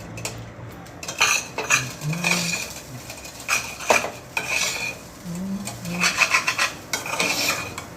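Cutlery clinking and scraping against a dish while stirring and scooping up stew, in repeated strokes starting about a second in, with a faint ring to the clinks.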